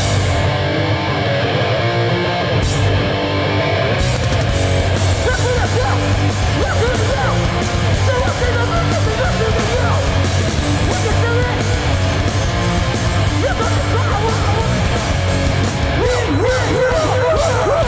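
Hardcore punk band playing live with distorted electric guitars, bass and drums. The low end and cymbals are thin at first, and the full band kicks in about four seconds in.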